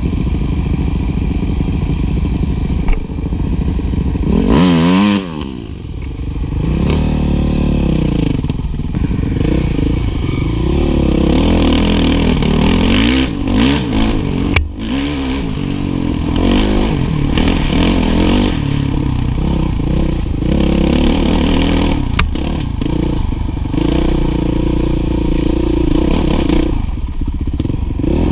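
Honda motorcycle engines running and revving up and down, with one quick rise and fall in pitch about four to five seconds in.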